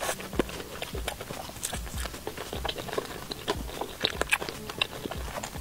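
A person chewing a mouthful of crumb-coated fried chicken close to a clip-on microphone: a run of small crunchy clicks and wet mouth sounds over soft thuds about once a second as the jaw works.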